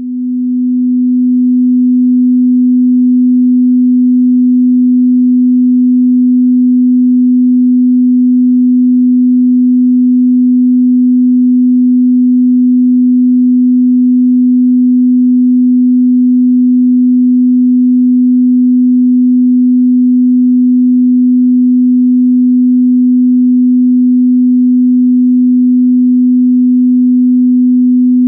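A steady 250 Hz sine-wave test tone, used to check a car or home audio system's frequency response. It swells in at the very start and then holds at one unchanging pitch.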